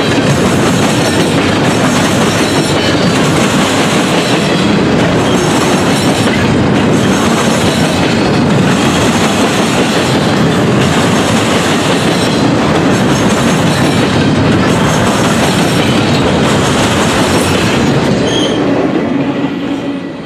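Norfolk Southern double-stack intermodal train cars rolling past close by: a loud, steady rumble and clatter of steel wheels on the rails with a regular beat. The sound starts to fall away near the end as the last cars go by.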